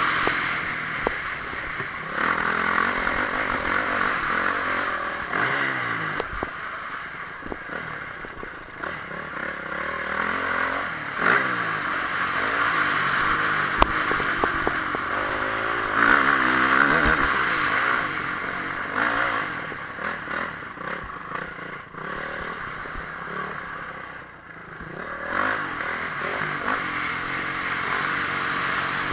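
Honda CRF450R motocross bike's single-cylinder four-stroke engine revving up and down over and over, its pitch rising and falling as the throttle opens and closes. There are a few sharp knocks, and the engine drops off briefly near the end before picking up again.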